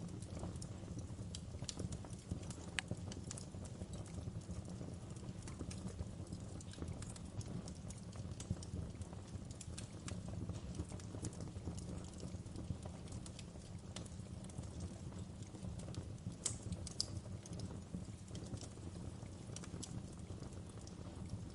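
Wood fire burning: a steady low rumble of flames with irregular sharp crackles and pops scattered throughout, a small cluster of louder pops about two-thirds of the way in.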